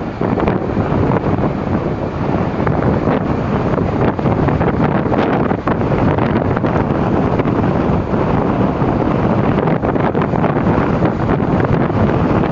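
Strong gusting wind, around 70 km/h, buffeting the microphone loudly and steadily, with storm waves breaking on the shore beneath it.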